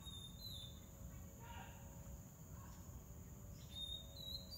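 Faint birdsong: short whistled notes near the start and a few more near the end, some gliding down in pitch, over a steady high-pitched insect drone and a low distant rumble.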